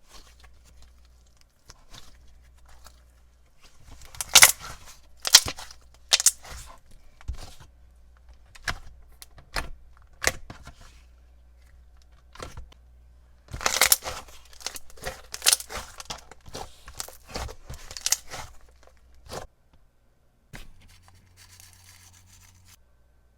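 Slime being squeezed, stretched and poked by hand, making sticky pops, crackles and tearing sounds. The pops come loudest in clusters about four to six seconds in and again about fourteen to eighteen seconds in.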